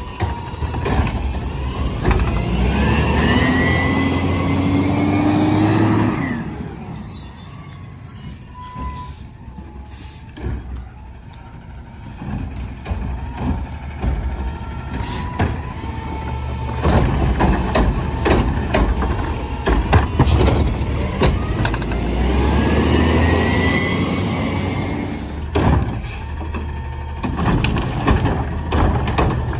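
Garbage truck engine revving up twice, its pitch rising each time as it drives the hydraulics. In between come a high squeal and a run of knocks and clanks.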